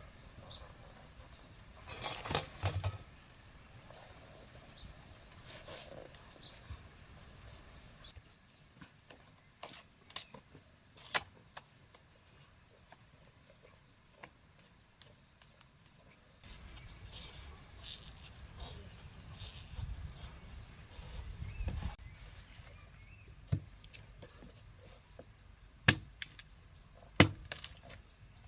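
Scattered sharp knocks, single strikes several seconds apart and a short cluster near the start, over a steady high insect drone.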